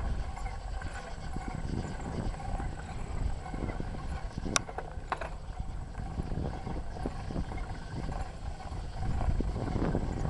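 Bicycle rattling and rumbling as it rolls over a trail, heard through a handlebar-mounted camera, with a sharp metallic click about halfway through.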